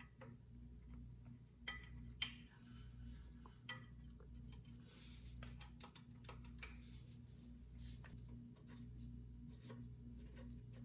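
Light metallic clicks and clinks of hand tools and small parts being handled on a generator, scattered irregularly, the loudest about two seconds in, over a faint steady hum.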